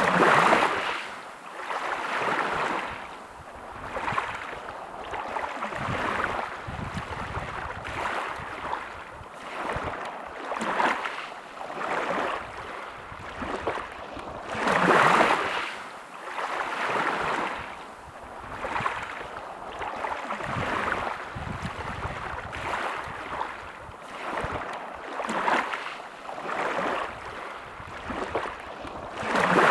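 Small sea waves breaking and washing up a beach, one surge of surf after another every second or two, with a bigger wave about halfway through.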